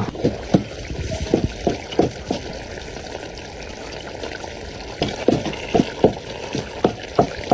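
Liquid being poured and plopping, with irregular short plops and a trickle; the plops are thickest in the first two seconds and again from about five seconds in.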